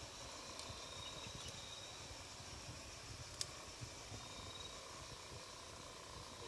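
Wood campfire burning, with a low steady rumble and a few sharp crackling pops from the wood, the loudest about halfway through.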